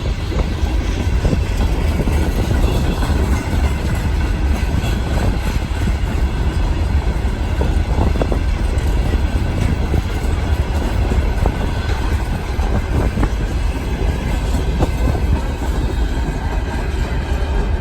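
Long train of railway wagons rolling past, a steady heavy rumble with now and then the clack of wheels over rail joints.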